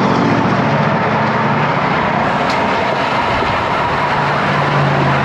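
Steady rush of wind and road noise on the microphone of a moving road bicycle, with a low engine hum from nearby motor traffic that grows stronger near the end.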